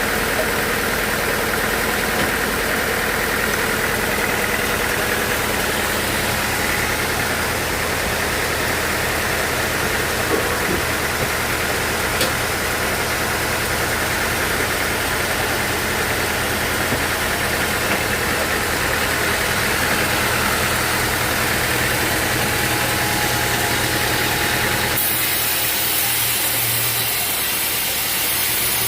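Sawmill machinery running steadily with an engine-like hum. The sound changes abruptly about 25 seconds in.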